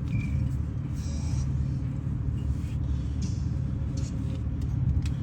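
Steady low rumble, with a few faint, light clicks about four and five seconds in.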